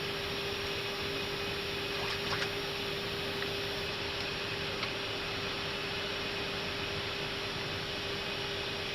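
Steady cockpit noise of an Airbus A319 in flight: an even hiss of air with a steady hum under it, and a few faint clicks about two seconds in.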